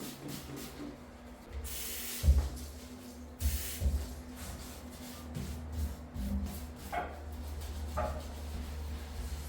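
Two short hissing sprays, about two seconds in and again a second and a half later, among a few low knocks.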